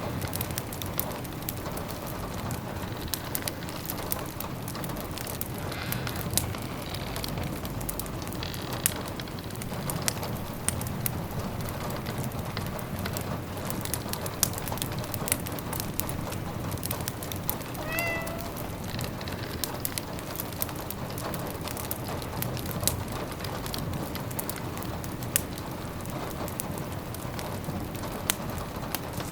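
Rain pattering on the windows together with a crackling wood fire: a steady hiss dotted with many small clicks and pops. A cat gives one short meow about eighteen seconds in.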